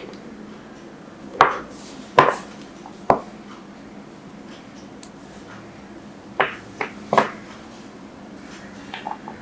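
Knife cutting a block of glycerin soap, each cut a sharp knock: three cuts about a second apart, then a quick run of three, and a softer pair near the end.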